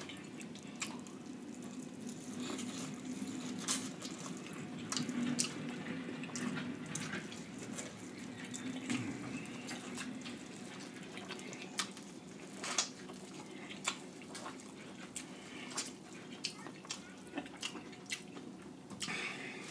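Wet chewing and lip-smacking mouth sounds while eating butter-sauce-soaked corn on the cob: irregular sharp wet clicks over a low steady hum.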